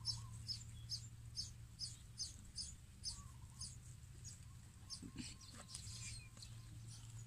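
A small bird chirping over and over, short high notes about two or three a second that become sparser about halfway through, over a low steady hum.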